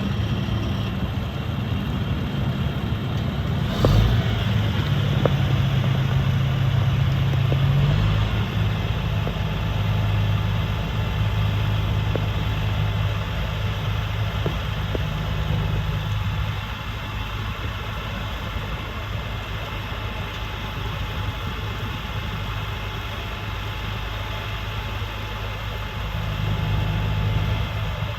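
Diesel engine of a 2007 Freightliner M2 dump truck idling steadily, with a sharp knock about four seconds in and the engine note shifting up for a few seconds afterwards.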